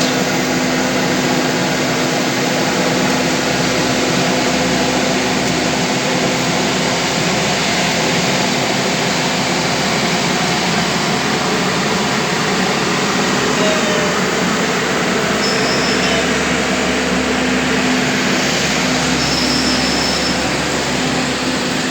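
Asphalt road-construction machinery running steadily: an even, unbroken machine noise with a constant low hum underneath.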